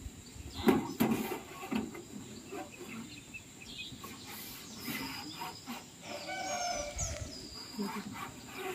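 A few sharp knocks in the first second or so, then a bird calling about six seconds in: a short, curving, pitched call.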